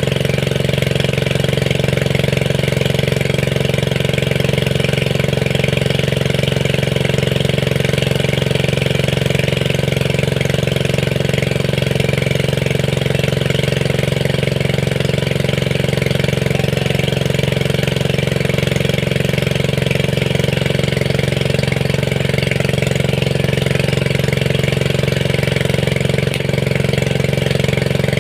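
A small engine running steadily at a constant speed, with a continuous hum and no change in pitch.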